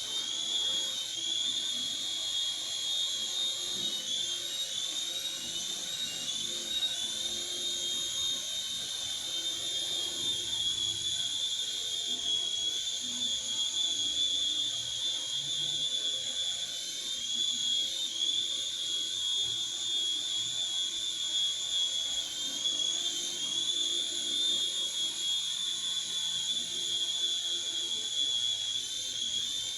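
Small electric motor of a mini helicopter running at speed: a steady high-pitched whine that dips and wavers slightly in pitch a few times.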